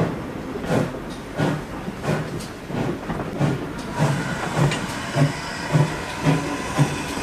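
GWR pannier tank steam locomotive working a train, its exhaust beats coming evenly and quickening from about one and a half to two a second as it gathers speed, over a steady hiss of steam and running noise.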